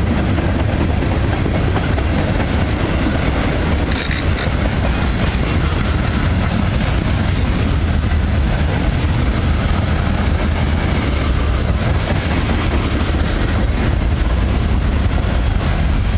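Union Pacific freight train's boxcars and centerbeam lumber cars rolling past, steel wheels on the rails making a steady low rumble. A brief high-pitched tone sounds about four seconds in.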